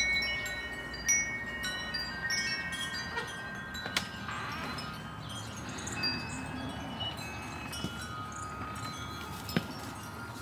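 Wind chimes ringing: several metal tones at different pitches struck now and then and left to fade slowly, with fresh strikes near the start, about a second in and about four seconds in.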